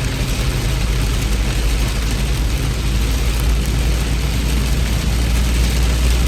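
Heavy rain falling steadily: a dense, even hiss with a deep low rumble underneath.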